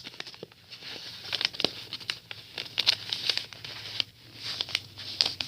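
A sheet of paper being folded and creased by hand: irregular rustling and crinkling with short sharp clicks as the folds are pressed down.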